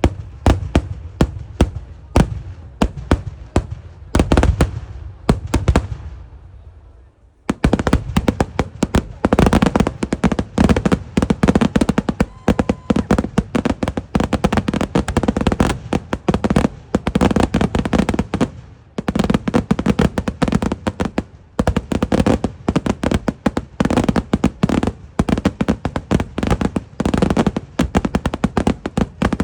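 Kerala temple-festival fireworks in an eeduvedi barrage. Separate loud bangs come a few a second at first, then after a brief pause they run together into a dense, almost continuous rapid string of explosions, broken once for a moment about two-thirds of the way through.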